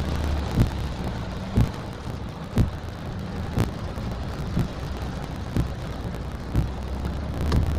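Heavy rain with a steady low vehicle rumble, and a dull thump about once a second.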